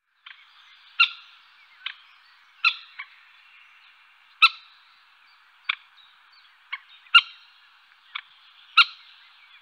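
A bird calling over and over: short, sharp pitched notes about once a second at uneven intervals, each trailing off with an echo.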